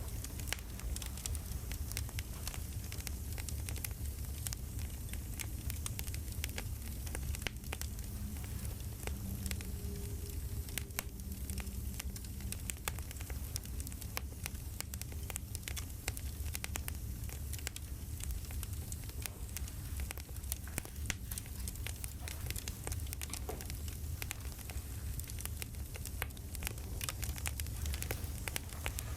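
Campfire crackling: a steady low rumble of burning wood with frequent small, irregular pops and snaps.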